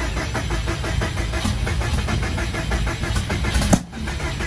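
Freshly rebuilt Subaru boxer engine being cranked over by the starter on its first start after reinstallation, a fast even chugging. Near the end there is a sharp knock and the sound briefly drops away.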